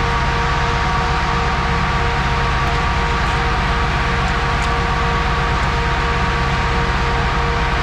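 Farm machinery running steadily: a low engine rumble with a constant whine over it.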